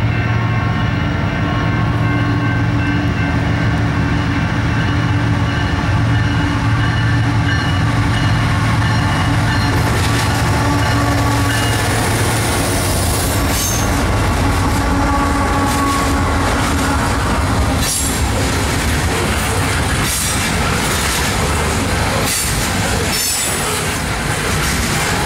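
A Union Pacific freight train led by three diesel-electric locomotives passes close by. The locomotives' engines hum steadily as they approach, growing into a broad rumble as they pass about ten seconds in. Then the loaded refrigerated freight cars roll by, their wheels knocking over rail joints in a regular clickety-clack, with some high wheel squeal.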